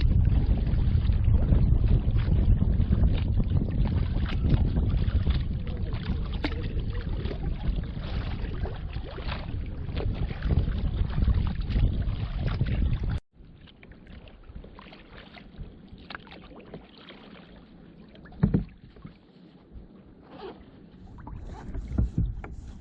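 Kayak paddling: water splashing and small knocks from the paddle and hull under a heavy low wind rumble on the microphone. About 13 seconds in the audio cuts abruptly to a much quieter stretch of gentle paddle splashes and occasional knocks, one louder near 18 seconds.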